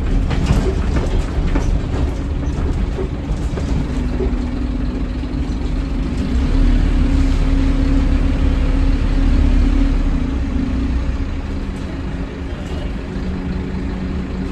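Diesel engine of a Scania N230UD double-decker bus running under load with a heavy low rumble. Its note steps up a few seconds in, grows louder, then drops to a lower steady note near the end.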